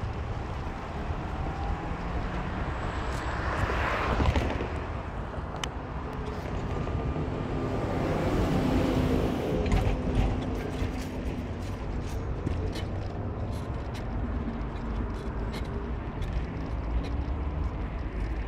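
Car driving on a road: a steady engine and tyre rumble that swells louder about four seconds in and again from about eight to ten seconds.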